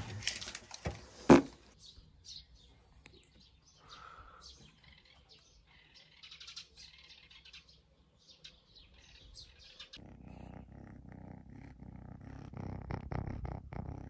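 A sharp knock just over a second in, then quiet handling sounds; about ten seconds in, a kitten starts purring close to the microphone with a steady, rough low rumble.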